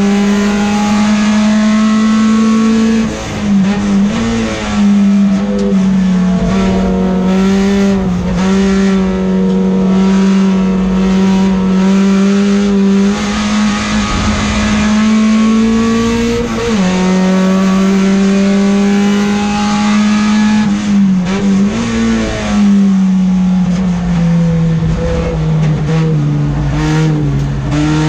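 Peugeot 405 STi race car engine at high revs, heard from inside the stripped cabin. Its note holds high and fairly level, dips briefly a few times as the revs change, and sinks slowly near the end.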